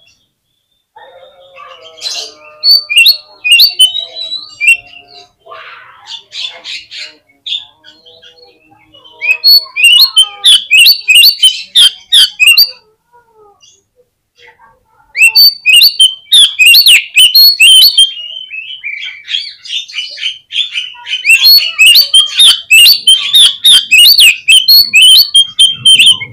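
Oriental magpie-robin singing: varied, quieter phrases at first, then three loud runs of rapid, closely repeated notes from about a third of the way in.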